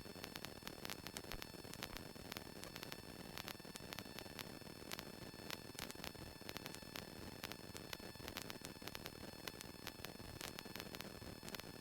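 Faint electrical static hiss with frequent small clicks and a few steady high-pitched whines, the noise floor of the aircraft's intercom or radio audio feed; the Cessna 172's engine is not heard.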